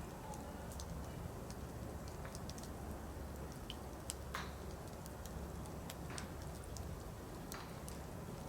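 Firewood burning, crackling with scattered sharp pops over a low steady rumble; a few louder pops, the first about four seconds in.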